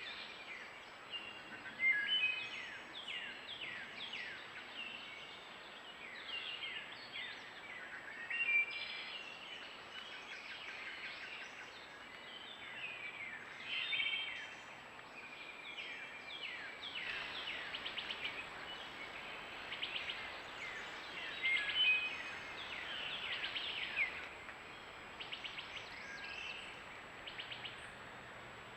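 Several small birds chirping and calling over one another: short chirps, quick down-sweeping notes and fast trills, with a few louder calls standing out.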